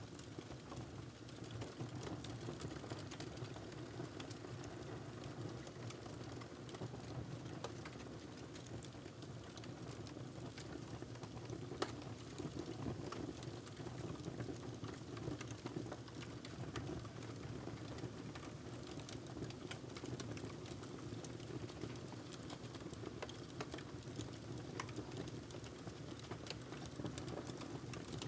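Wood fire crackling in a fireplace: a steady low rumble of flames under frequent small snaps, with one sharper pop about twelve seconds in.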